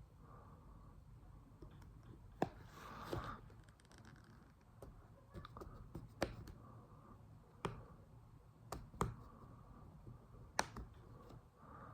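Small tools and phone parts being handled on a workbench: scattered sharp clicks and taps, about seven in all, with a brief scratchy rustle about three seconds in.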